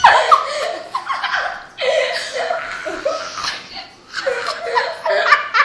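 A person laughing in repeated loud bursts, with short breaks between them.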